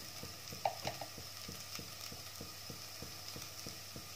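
Chopped onion and tomato frying gently in oil in a pan: a soft, steady sizzle with small crackles popping several times a second.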